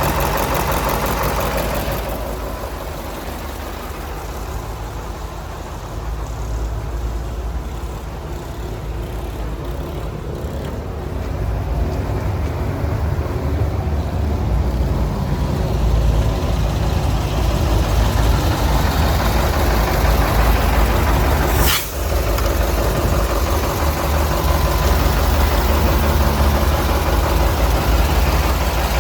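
Mercedes-Benz 2628 K tipper's V8 diesel engine running steadily, growing louder partway through. A single brief, sharp sound cuts across it about 22 seconds in.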